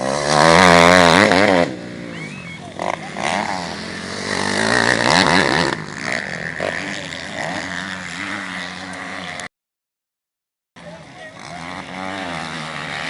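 Motocross bike engines revving as they pass, the pitch wavering up and down, loudest in the first second and a half and swelling again around the middle. The sound cuts out completely for about a second near the end, then the engines return.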